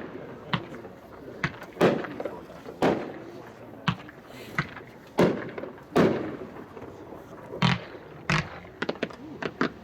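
V-Day 26-shot 500-gram consumer fireworks cake firing: about a dozen sharp bangs at uneven intervals, each with a short echoing tail, the loudest about two, three, five and six seconds in.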